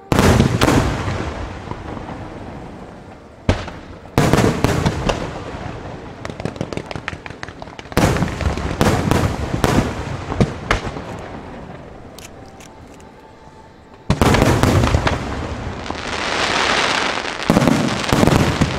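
Aerial fireworks shells bursting in volleys, each sudden bang trailing into dense crackling; a big volley comes right at the start, more about four seconds in, about eight seconds in and about fourteen seconds in, and the last few seconds are a continuous crackling hiss.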